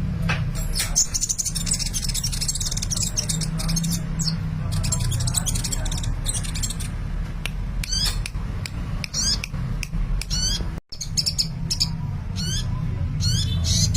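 Sunbird singing busily: rapid high-pitched chirps and trilled bursts with quick up-and-down pitch sweeps, repeated again and again over a steady low hum.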